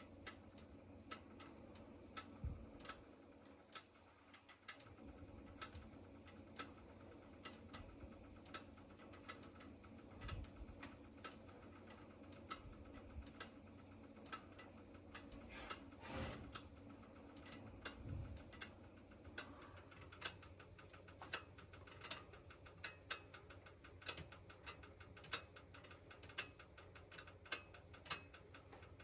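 Gas oven with a weak igniter clicking over and over, a little under two clicks a second, with a few duller knocks mixed in: the noise a failing oven igniter makes while the oven is in use.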